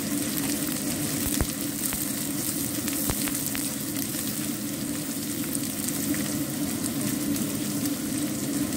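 Sliced onions and ginger sizzling steadily in hot oil in a wok as they are stir-fried with a spatula, with a couple of sharp ticks in the first few seconds.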